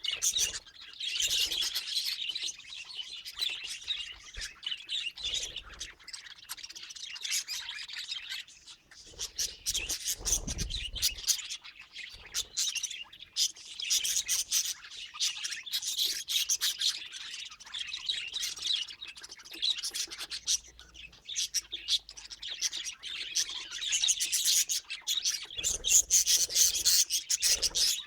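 A group of parrots chirping and chattering, many high-pitched calls overlapping in waves that rise and fall. A brief low rumble comes about ten seconds in.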